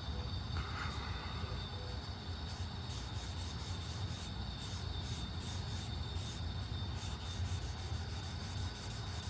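Quick back-and-forth coloring strokes of a drawing tool scratching on paper, filling in part of a sketch. The strokes come rapidly and grow busier a couple of seconds in, over a steady low hum.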